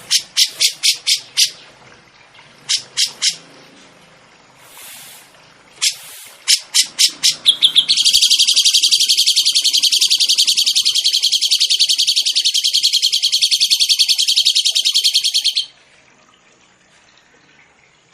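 Songbird calling: short runs of sharp, evenly repeated high notes, then a long, very rapid rattling trill of about seven seconds that stops suddenly.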